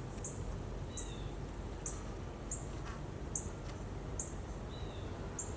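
A small bird chirping: short, very high notes repeating about every half second to second. A few lower, falling notes come in about a second in and again near the end.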